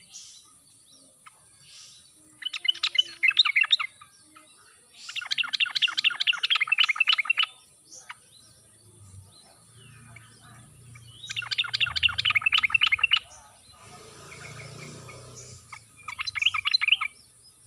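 Yellow-vented bulbul (trucuk) singing in four bursts of fast bubbly chattering notes, each lasting one to two and a half seconds with pauses between, over a steady high hiss.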